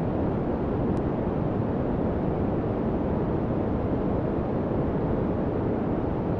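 Steady noise track: an even, unbroken rushing hiss, deepest and strongest in the low end and thinning toward the highs, with no change in level.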